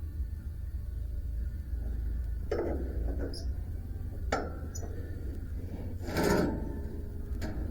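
A few separate knocks and clatters of parts being handled, the loudest about six seconds in, over a steady low hum.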